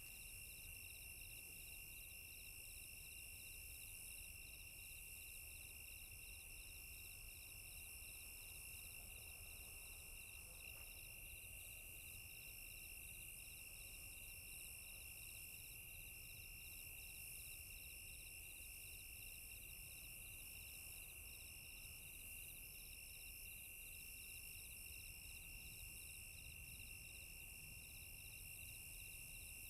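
Near silence with faint, steady, high-pitched insect chirring: one tone pulses rapidly and evenly, another comes in short broken dashes.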